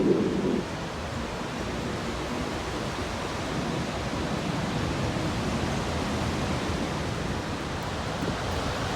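Cumberland Falls in flood: a steady, even rush of falling water with no change in level.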